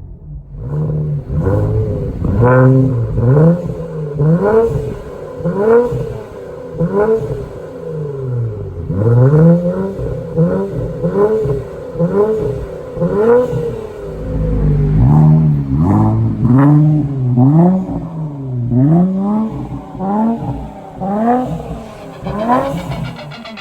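2019 Infiniti Q50's 3.0-litre twin-turbo V6 through a Kinney's Street Demon true dual performance exhaust, revved again and again in quick blips. The pitch rises and falls with each rev, about once a second.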